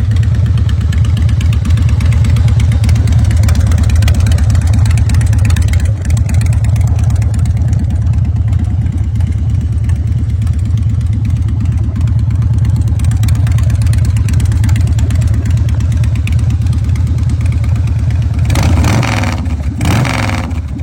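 Harley-Davidson Dyna Low Rider's V-twin engine running steadily through Samson aftermarket exhaust, with a deep, even pulsing beat. Near the end come a couple of short, louder bursts.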